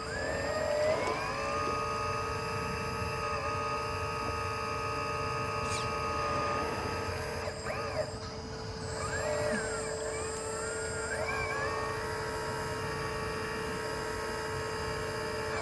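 Lesu PC360 RC hydraulic excavator's pump running with a steady hum and a whine. The whine rises about a second in, drops away around the middle, and climbs again a few seconds later as the hydraulics are worked under load.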